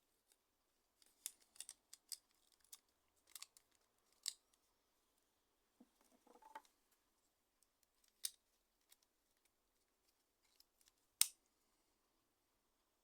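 Scattered light clicks and small scrapes from hand work on a Nokia N95 phone's parts, with a short rustling scrape about six seconds in and one sharper click about eleven seconds in.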